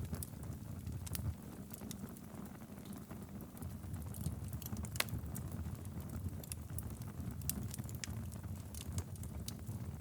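Wood fire burning in a fireplace: a steady low rumble of flames with scattered crackles and pops, one sharper pop about halfway through.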